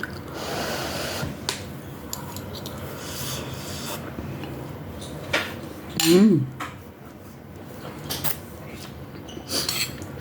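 Close-miked eating of misua noodles with sardines: wet chewing and rubbing noises, with several sharp clicks and a short rising-and-falling pitched sound about six seconds in.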